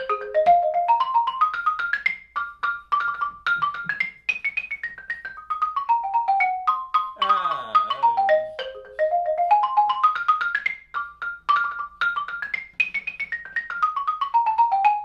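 Xylophone played with mallets in fast, even runs of notes that climb and fall in scale and arpeggio patterns, an A-flat exercise at a dance tempo.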